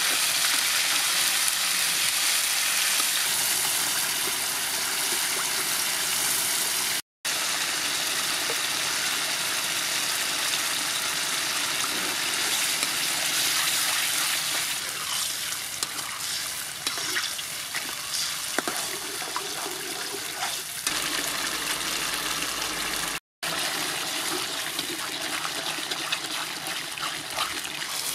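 Minced garlic frying in oil in an aluminium wok, a steady sizzle as sauce is poured in and stirred. In the second half the metal spoon clicks and scrapes against the wok now and then, and the sound breaks off for an instant twice.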